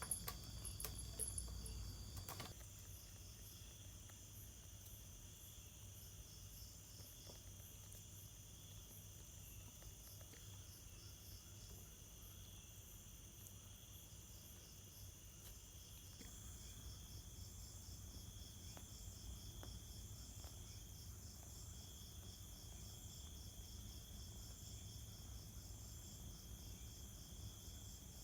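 Faint, steady chirring of insects, several high pulsing tones layered together without a break. A few soft clicks come in the first couple of seconds.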